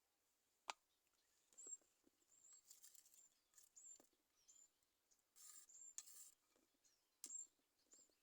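Near silence, broken by a few faint sharp clicks, soft rustles and brief high chirps.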